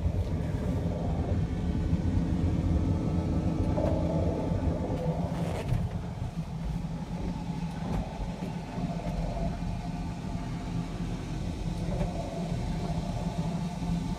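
Steady low rumble of an engine running somewhere nearby, with a few faint rustles.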